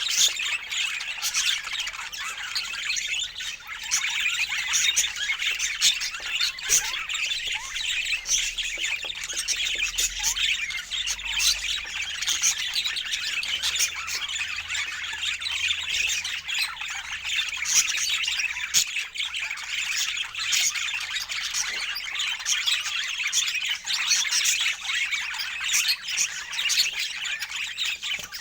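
A flock of birds chattering and squawking, many short calls overlapping without a break.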